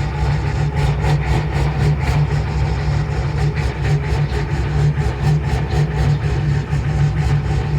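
1988 Ford F-350's 7.3 IDI V8 diesel with a Banks Sidewinder turbo idling steadily after a cold start, with an even diesel clatter.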